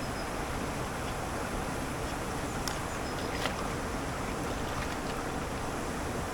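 Steady rushing of a waterfall, an even roar of falling water, with a couple of faint clicks about midway.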